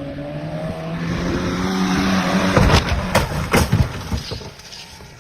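A motor vehicle's engine running and growing louder, then a quick cluster of sharp bangs and knocks about halfway through.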